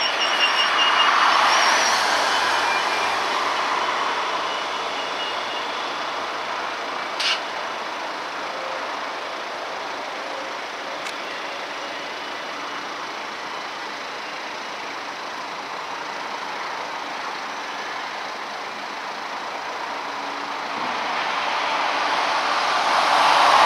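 A slow freight train of container wagons behind a diesel shunting locomotive, rolling through a terminal. The wheels make a steady rumble and hiss on the rails, louder at the start, easing off in the middle and growing louder again near the end. A high intermittent beeping sounds in the first few seconds, and there is a single sharp knock about seven seconds in.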